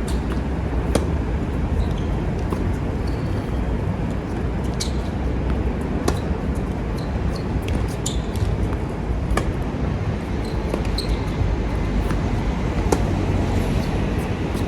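Tennis rally: sharp pops of the ball struck by rackets and bouncing on the court, every one to four seconds, over a steady low rumble of strong wind on the microphone.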